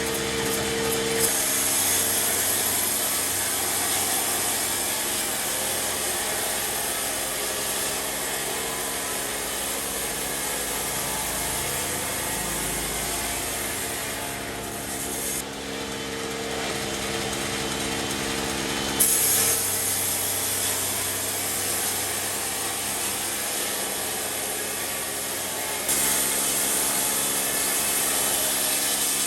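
Sawmill saw running and cutting through wood over a steady motor hum. The cutting noise changes abruptly about a second in, and again around the middle and near the end.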